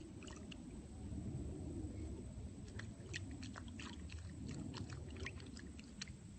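Soft wet squishing with a flurry of small clicks in the middle, as a chicken's soiled vent feathers are worked by hand in a tub of water to soak the droppings loose.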